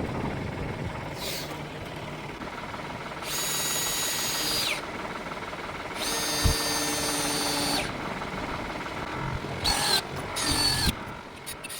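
Power drill running in short bursts, likely driving screws: two longer runs of about a second and a half, then a couple of brief ones near the end, its whine falling away each time it is released.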